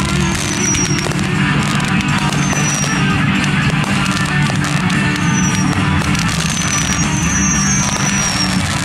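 Rock music with guitar plays loudly. Over it come repeated short high whistles that fall in pitch, and scattered crackling pops from fireworks.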